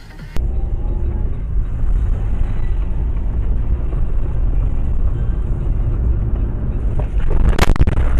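Dashcam recording of a car on the move: steady low road and engine rumble, with a brief loud bang about three-quarters of the way through.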